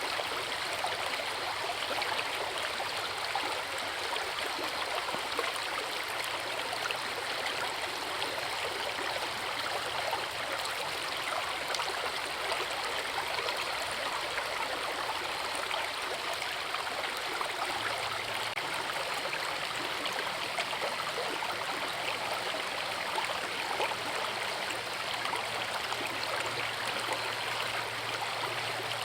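Forest river flowing at a waterfall: a steady, unbroken rush of water.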